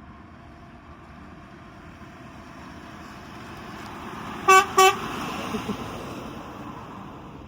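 Road traffic noise slowly swelling as a vehicle approaches and passes, with two short, loud horn toots about four and a half seconds in.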